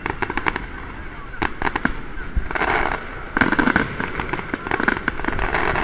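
Aerial firework shells bursting: a quick run of sharp bangs and pops, busiest in the second half.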